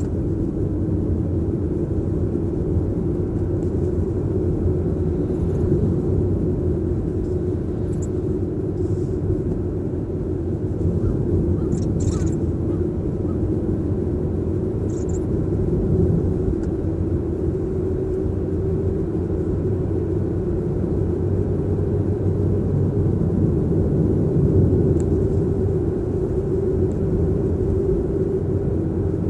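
Steady road and tyre rumble inside a moving Toyota Prius's cabin, with a few faint, sharp clicks about 8, 12 and 15 seconds in, which may be the abnormal noise reported from behind the steering wheel.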